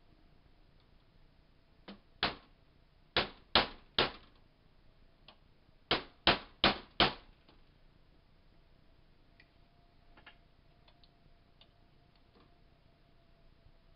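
Hammer blows on a metal punch, driving the roll pin out of a Crosman PowerMaster 760 BB gun: one strike, then a quick run of three, then a quick run of four, followed by a few faint light clicks.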